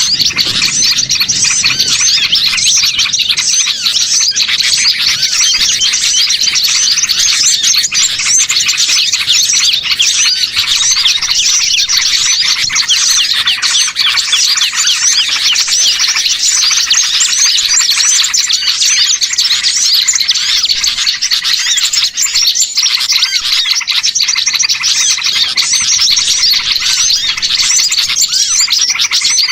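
Bird-lure recording of many small songbirds chirping and trilling at once, a dense, unbroken chorus of overlapping high calls.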